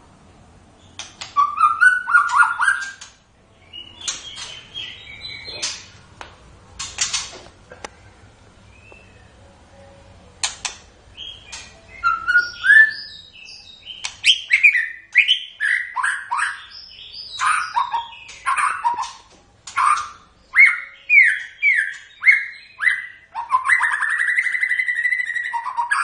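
White-rumped shama (murai batu) singing: varied phrases of clear whistles and quick chattering notes with short pauses between them, turning into a fast run of repeated down-slurred whistles and a long held whistle near the end.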